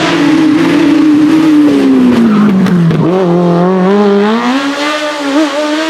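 Modified Autobianchi A112's four-cylinder engine at racing speed. The revs fall steadily for about three seconds off the throttle, then climb again under acceleration and hold high near the end.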